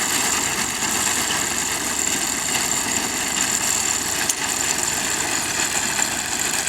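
Tractor engine running steadily, with a brief click about four seconds in.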